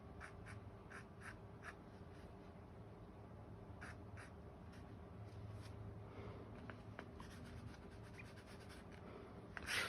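Faint, soft strokes of a Chinese painting brush on rice paper: several quick short strokes in the first two seconds, a couple more about four seconds in, then a louder rustle near the end.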